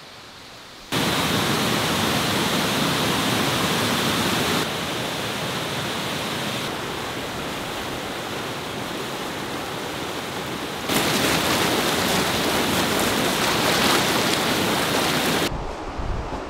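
Waterfall rushing: a loud, steady hiss of falling water that starts about a second in, jumps louder or quieter at several abrupt cuts, and drops away near the end.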